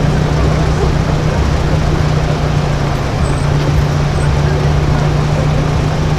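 Street traffic noise with a steady low engine hum, unchanging in pitch, from a vehicle idling close by.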